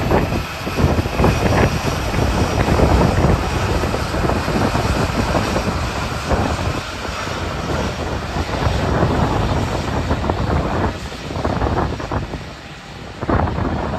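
Strong wind buffeting the microphone in irregular gusts, over the low rumble of jet aircraft engines at an airport.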